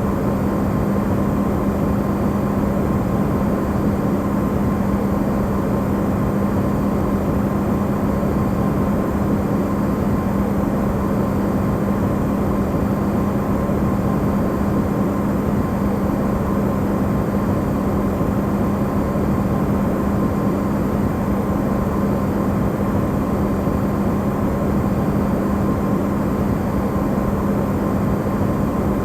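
Amplified recording of an Electrolux refrigerator running: a steady hum with a fainter high tone over an even rushing noise, used as white noise.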